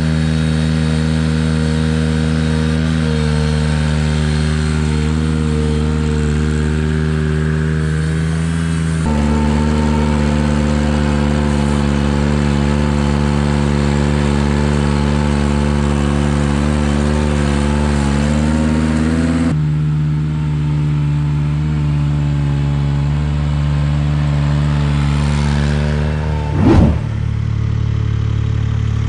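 Ventrac compact tractor's engine running steadily under work, its note shifting abruptly twice. A brief loud burst comes near the end.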